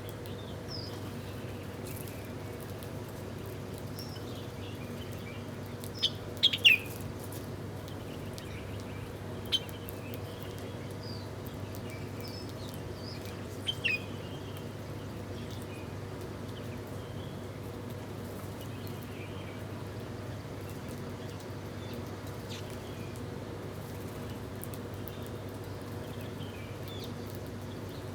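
Small birds chirping in short, scattered calls, the loudest cluster about six seconds in, over a steady low hum.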